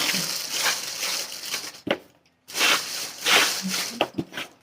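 Packaging being opened: tearing and crinkling in two stretches of about two seconds each, with a short pause between them and a couple of sharp clicks.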